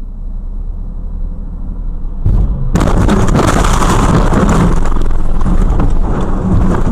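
Low rumble of a car driving, then about three seconds in a sudden loud crash with several seconds of dense crunching and scraping noise, typical of a vehicle collision.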